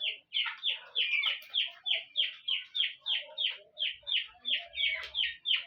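A flock of three-week-old chicks peeping: a steady run of short, high, downward-sliding peeps, about three or four a second.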